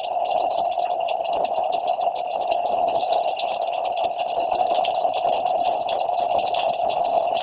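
Steady rain falling, a continuous hiss made of many fine patters.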